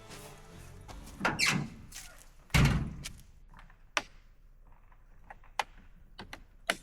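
A heavy thump about two and a half seconds in, after a brief scraping sound, then several short sharp clicks or knocks.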